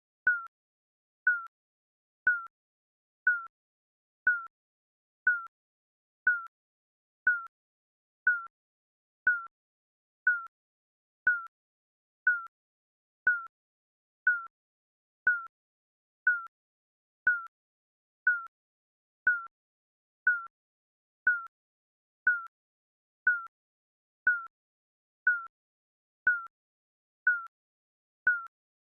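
Digital countdown timer beep sounding once a second: a short, evenly spaced electronic beep, each one the same pitch.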